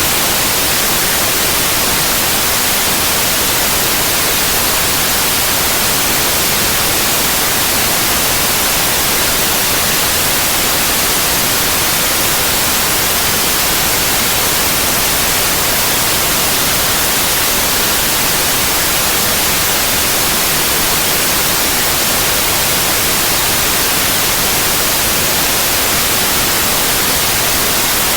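Synthetic white noise: a loud, even hiss, unchanging throughout, with its energy weighted toward the high frequencies.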